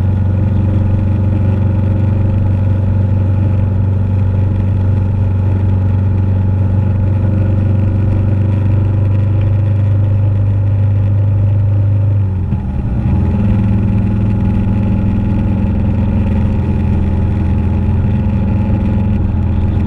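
Motorcycle engine running steadily under way, its note dipping briefly and shifting about twelve seconds in.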